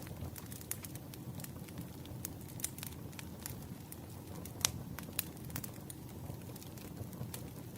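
Campfire crackling: a steady low rumble of burning wood with irregular sharp snaps, and one louder pop a little past halfway.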